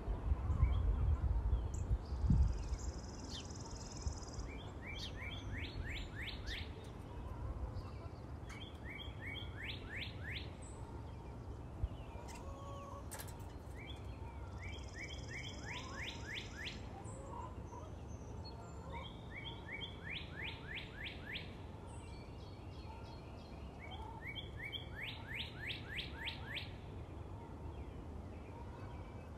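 Birdsong: a short song of quick, evenly repeated chirping notes recurs about every four to five seconds over a steady low background hum, with a louder low rumble in the first couple of seconds.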